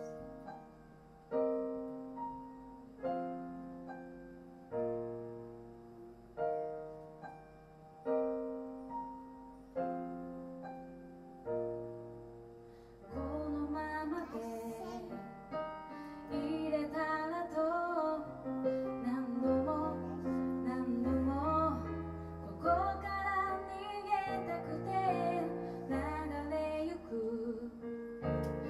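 Keyboard playing a slow piano intro, one sustained chord struck about every second and a half. About halfway through a woman starts singing over the keyboard, with deeper bass notes joining.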